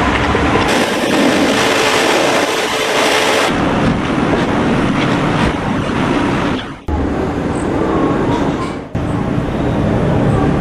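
Pressure washer (jet cleaner) running steadily, its water spray hissing loudly from about a second in to about three and a half seconds. The sound cuts out briefly twice in the second half.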